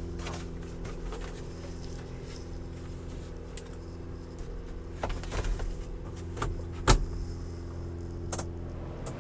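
Subaru Sambar's 660 cc EN07 four-cylinder engine idling steadily while cold. A few light clicks and knocks from handling things in the cab sound over it, with one sharper knock about seven seconds in.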